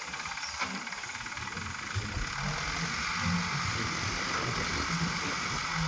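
Heavy-equipment diesel engine running steadily.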